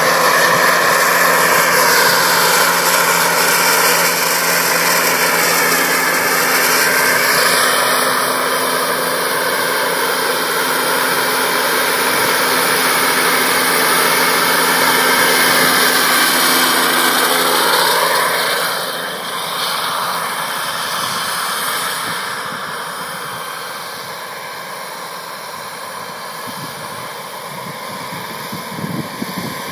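Radio-controlled model helicopter flying, its engine and rotor whine rising and falling in pitch as it manoeuvres. It becomes quieter about 19 seconds in and stays that way.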